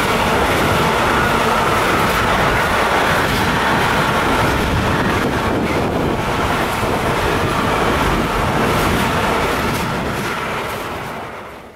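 Intermodal freight train rolling past close by, a steady loud run of wagon wheels on the rails; the noise dies away near the end as the last wagons go by.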